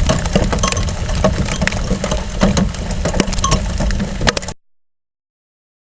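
Large hailstones and heavy rain striking an exposed GoPro camera whose protective acrylic dome has shattered: a dense clatter of sharp hits over a low rumble. The sound cuts off abruptly about four and a half seconds in.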